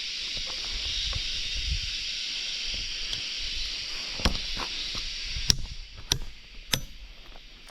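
A steady high-pitched insect chorus that fades after about five and a half seconds, with four sharp knocks in the second half, like a blade chopping wood.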